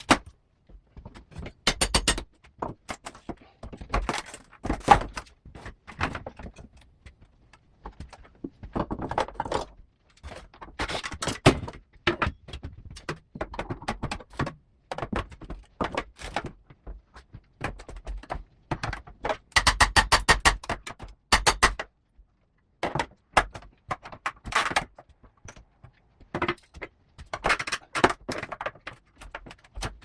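Irregular knocks, clicks and metallic clatter of hand work on a replacement window and its frame, with a quick run of rapid clicks about twenty seconds in.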